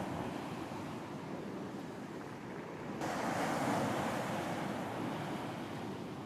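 Surf on a beach: a steady rush of waves that swells suddenly louder about three seconds in, then slowly eases off.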